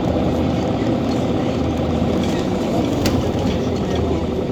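Scania OmniCity city bus under way: its engine running with road rumble, steady throughout, and a sharp click about three seconds in.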